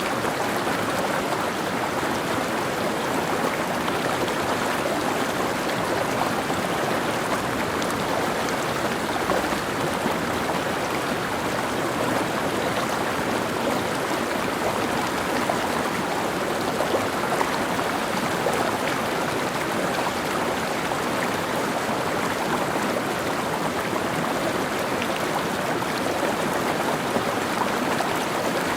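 Mountain stream flowing over rocks: a steady rushing and babbling of water.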